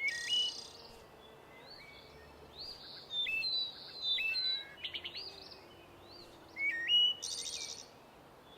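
Songbirds chirping and calling: short whistled notes and chirps in scattered bursts, with a couple of quick high buzzy trills, one at the start and one near the end.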